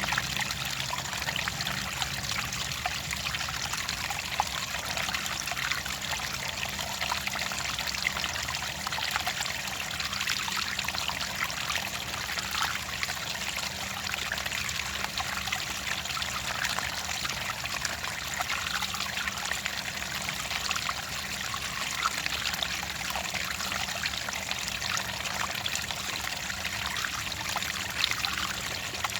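Clear running water trickling steadily, a dense, even patter of small splashes with no pauses.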